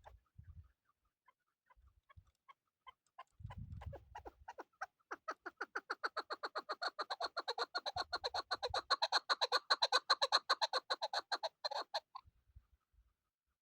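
Chukar partridge calling: scattered single clucks, then from about four seconds in a quickening run of rapid clucking notes that grows louder and stops abruptly near the end.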